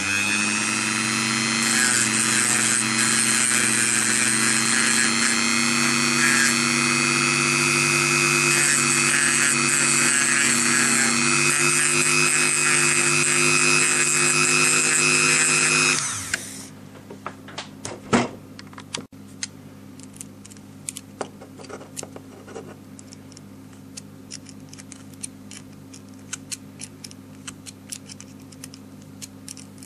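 A small electric power tool motor runs steadily with a high whine for about sixteen seconds, then winds down and stops. Light clicks and taps follow, with one sharper knock soon after it stops.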